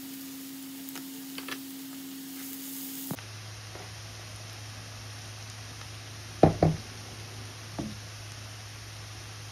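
Chopped onions frying in oil with a faint steady sizzle under a low hum. About two-thirds of the way through comes a sharp double knock, then a lighter knock a second later.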